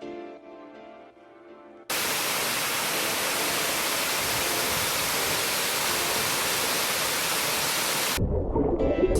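Soft background music. About two seconds in, a steady, full rush of falling water from a waterfall cuts in over it, runs for about six seconds and cuts off abruptly, then the music returns.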